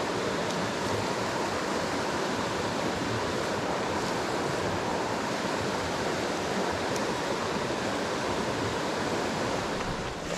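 Mountain stream water rushing over rocks in a steady, even roar of running water.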